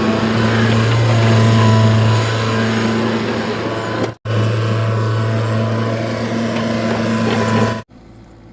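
Excavator's diesel engine running with a steady drone. It is cut off abruptly about four seconds in, resumes, then gives way near the end to much quieter background sound.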